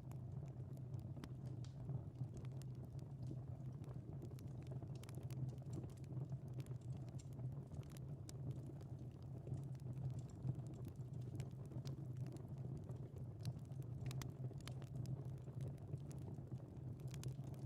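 Wood fire crackling in a fireplace: irregular sharp snaps and pops over a steady low rumble of burning.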